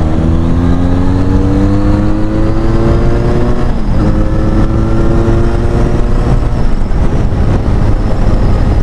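Benelli Leoncino 500's parallel-twin engine, with an aftermarket exhaust, accelerating hard: the note rises, breaks for a gear change about four seconds in, then rises again. In the last couple of seconds wind rush at speed covers the engine.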